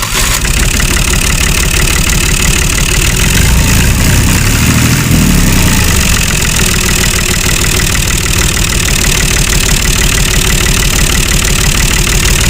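An engine running steadily and loudly, with a fast even firing rhythm.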